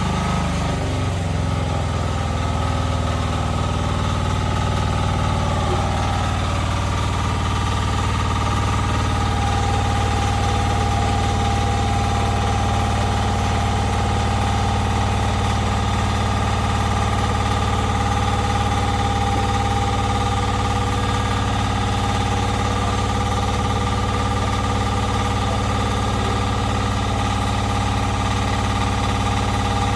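A motor running steadily with a continuous low hum, a higher whine settling in over the first several seconds.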